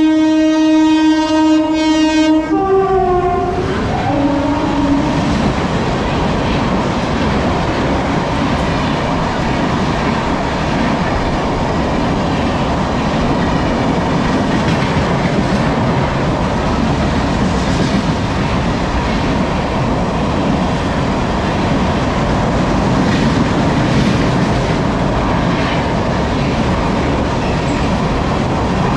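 Indian Railways express train speeding through the station, its horn blaring for a couple of seconds and dropping in pitch as it goes past. After that comes the steady rumble and clatter of coaches and wheels running over the rail joints at speed.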